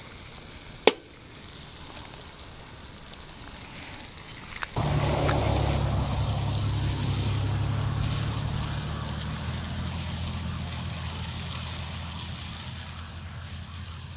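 Eggs, minced meat and tomatoes frying in a pan over a charcoal grill: a steady sizzle that turns abruptly louder about five seconds in and slowly fades, with a wooden spatula stirring and scraping in the pan. One sharp click about a second in.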